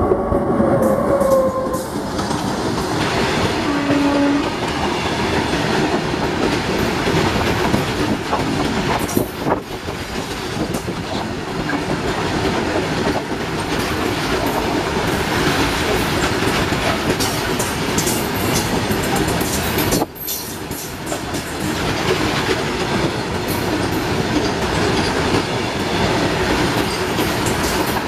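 Freight train passing close by: the electric locomotive's horn sounds briefly at the start, then a long rake of loaded open wagons rolls past with a steady rumble and clickety-clack of wheels over the rail joints.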